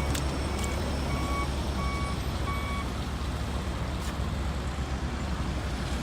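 Heavy equipment's back-up alarm beeping about every two-thirds of a second over a low steady engine rumble; the beeping stops about halfway through.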